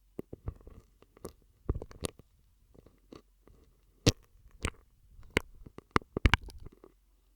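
Mouth sounds made through a straw: an irregular run of sharp clicks and pops, loudest about four seconds in and again around six seconds.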